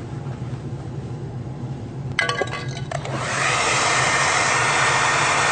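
Hand-held hair dryer, preceded by a brief clatter, switches on about three seconds in and blows steadily with an even rushing noise, used to heat a dented plastic car bumper. A low steady hum runs underneath.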